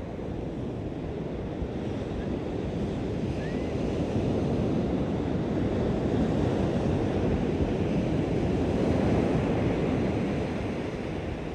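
Waves washing onto a beach, a steady rushing surf with wind buffeting the microphone; the surf swells slowly through the middle and eases off near the end.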